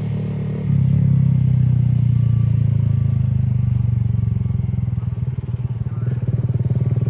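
Motor vehicle engine running steadily with a fast, even pulse, stepping up in loudness a little under a second in as it is given more throttle.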